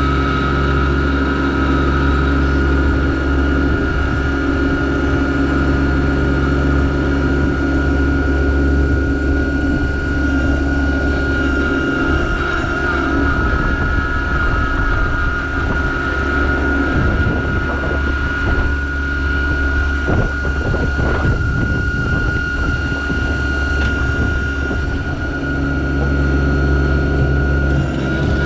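Yanmar SA324 compact tractor's three-cylinder diesel engine running steadily under working load, with a constant high whine over the engine note. The sound turns rougher and less even for a few seconds past the middle.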